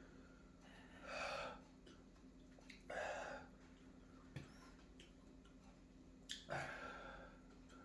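A man breathing hard, with three loud, breathy gasps or out-breaths about a second, three seconds and six and a half seconds in, and a few faint clicks between them. It is the laboured breathing of someone in distress from the burn and nausea of eating raw bird's eye chillies.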